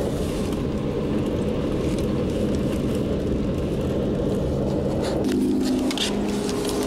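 A car driving: steady low road and engine noise, with a low steady hum of a few tones coming in about five seconds in.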